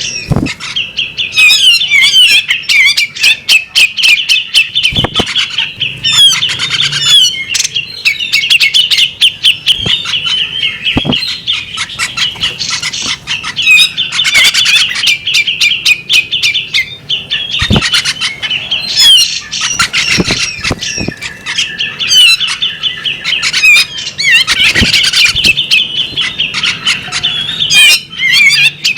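Female bearded magpie robin calling and singing almost without pause: fast runs of sharp chattering notes and trills, a few short breaks between phrases.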